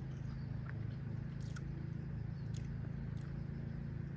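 A person eating: a few brief crisp bites and chewing, over a steady low hum.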